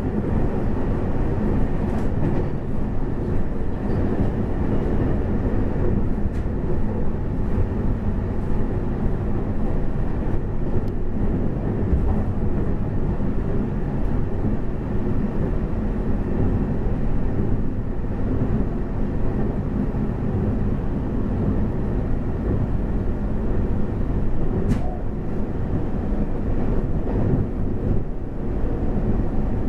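Steady low rumble of a Taiwan Railway passenger train running along the track, heard from inside the carriage.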